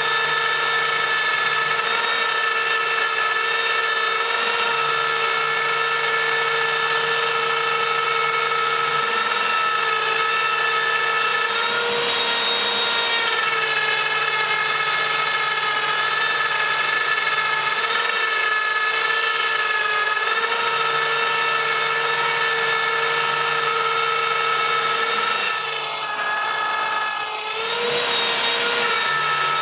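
Homebuilt CNC router cutting, its spindle running with a steady high whine, under a lower hum that starts and stops every few seconds as the machine moves. Near the end the whine dips in pitch and level for a moment as the cut loads the spindle.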